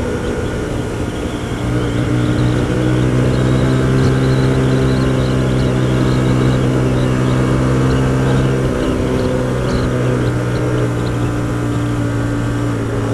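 Hyosung GT125R's 125 cc V-twin engine running at a steady note while riding, over a haze of wind noise. It picks up slightly about two seconds in and drops a little in pitch near the end.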